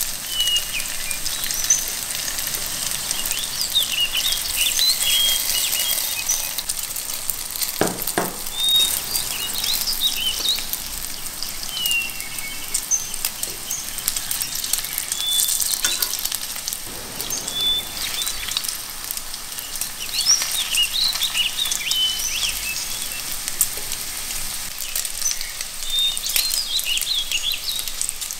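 Cauliflower florets sizzling and crackling as they shallow-fry in oil in a pan, with a single knock about eight seconds in. Short high bird chirps come and go in the background.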